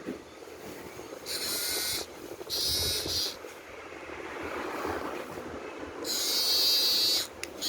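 Small electric motor of a battery-operated toy minibus running in short bursts, a high whirring buzz switched on and off three times, the last burst the loudest.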